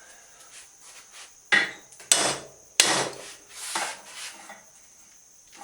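Three hard hammer blows on a tack-welded steel table leg, about half a second apart, with a weaker knock after them: the leg is being knocked into square while only tacked.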